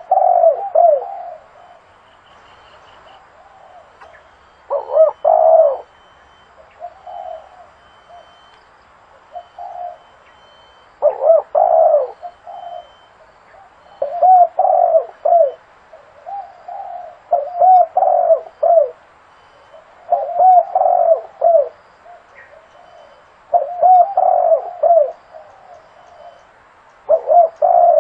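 Spotted dove cooing: short phrases of several low coos, repeated about every two to three seconds with quiet gaps between.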